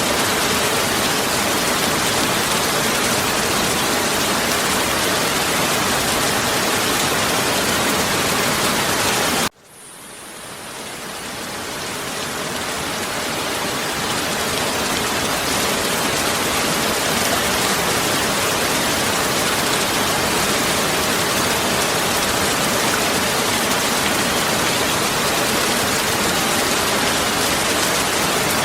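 Heavy rain falling as a steady, loud hiss. About nine and a half seconds in it cuts out suddenly, then fades back in over the next few seconds, like an edit in a looped recording.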